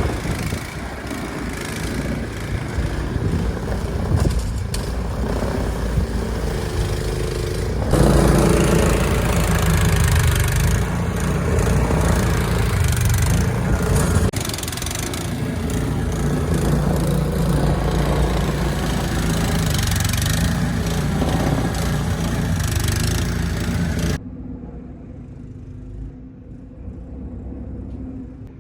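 An engine running steadily under a loud rushing noise, broken by sudden cuts. About 24 seconds in it drops to a much quieter, faint background.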